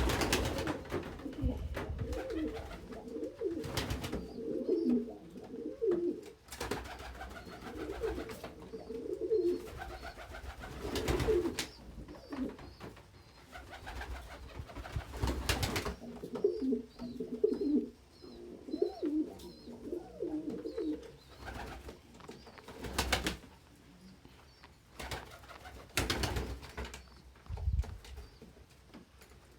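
Domestic pigeons cooing in bouts of several seconds, with a few sharp knocks in between.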